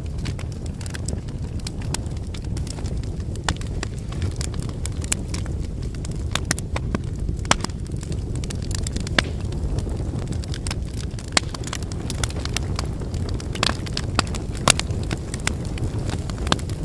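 Wood fire burning: a steady low rumble of flames with frequent irregular sharp crackles and pops from the burning firewood.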